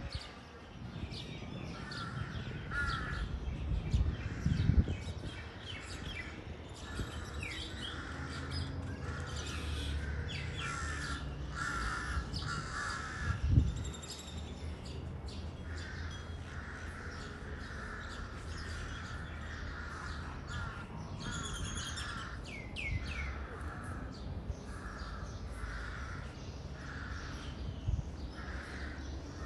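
Birds calling: a long run of short, repeated harsh calls with quick higher chirps between them, over a steady low rumble. A single thump about halfway through.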